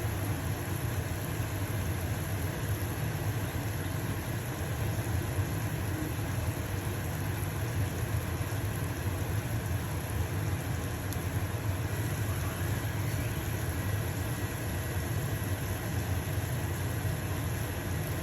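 Pancake batter sizzling in a frying pan over the steady low hum of a stove-top range hood fan.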